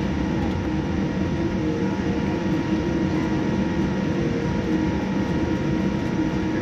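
Steady cabin noise inside a Boeing 787-9 taxiing with its engines at idle: a low uneven rumble under a few fixed steady tones, with no rise in thrust.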